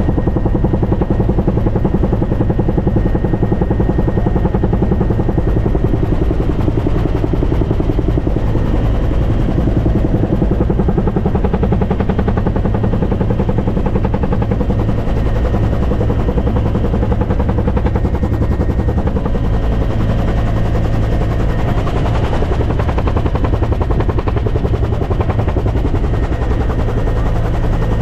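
Helicopter running with its rotor beating in a fast, even rhythm over a steady low engine drone.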